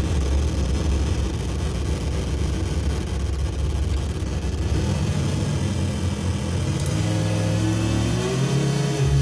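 Homemade DIY noise synthesizer droning with gritty, shifting low tones. About eight seconds in, its pitch glides upward and settles into a steadier held tone.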